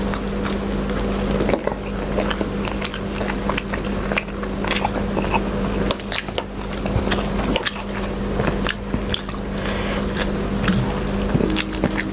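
Close-miked chewing and mouth sounds of people eating soft hariyali fish pieces: irregular wet smacks and small clicks, over a steady hum.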